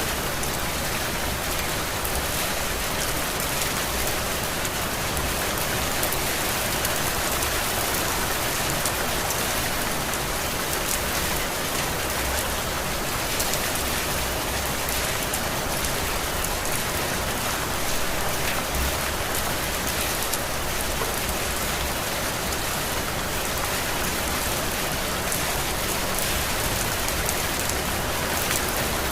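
Heavy tropical rain falling steadily, a dense even hiss of drops on surfaces with no let-up.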